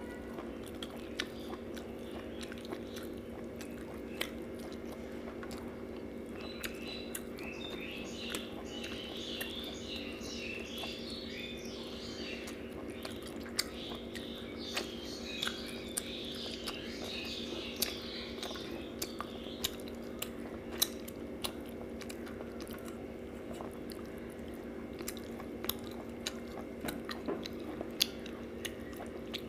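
A person chewing rohu fish and rice with the mouth closed, with many small sharp mouth clicks and lip smacks, over a steady low hum.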